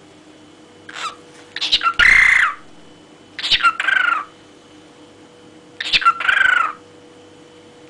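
A bird calling loudly three times, about two and a half seconds apart. Each call is a quick falling note that runs into a longer held one, over a faint steady hum.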